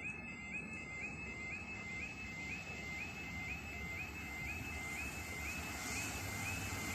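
Level crossing audible warning alarm sounding, a high warbling tone repeating about twice a second. A low rumble builds beneath it near the end.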